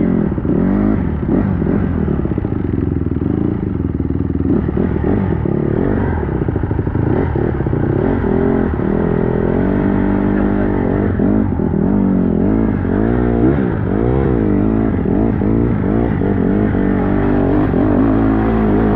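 Dirt bike engine running under constantly changing throttle, its pitch rising and falling every second or so as it is ridden.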